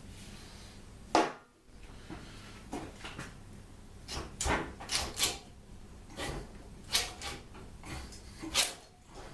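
A run of irregular knocks and clunks of tools and engine parts being handled while stripping down a car engine, the loudest about a second in and near the end.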